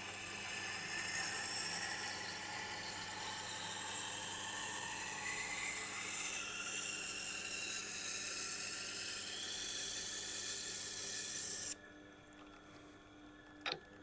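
Nakiri knife blade grinding on a Tormek T8's water-cooled SG-250 stone, coarse-dressed with an 80-grit diamond plate: a steady scraping grind with wavering high tones as the blade is drawn slowly along the wheel. It stops suddenly about 12 seconds in, leaving a much quieter background and one short click near the end.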